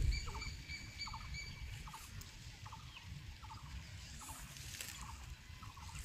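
A bird calling in the background, repeating a short note about every three-quarters of a second, with a thin steady whistle in the first second and a half.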